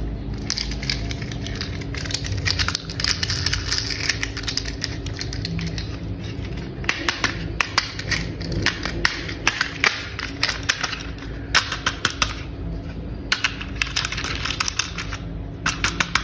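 Hard plastic toy parts clicking and snapping as they are fitted together by hand, in runs of quick clicks with short pauses between them, over a steady low hum.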